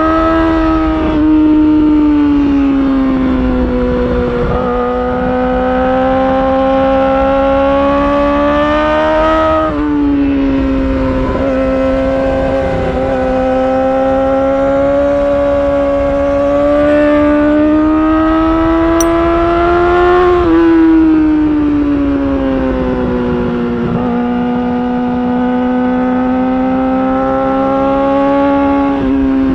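Yamaha R6's 599 cc inline-four sportbike engine through an Akrapovic titanium exhaust, running at high revs under way. The pitch climbs slowly and drops sharply a few times, at the gear changes and throttle changes.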